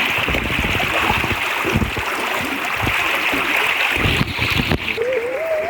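Lake water lapping against the boathouse, a steady rushing wash broken by irregular soft slaps.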